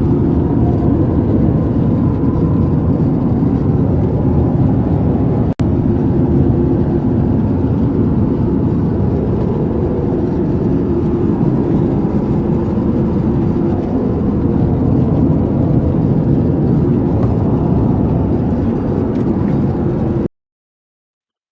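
Steady cabin noise of an Airbus A350-1000 at cruise, a dense low rush of airflow and engine drone. It breaks off for an instant about five and a half seconds in and stops abruptly near the end.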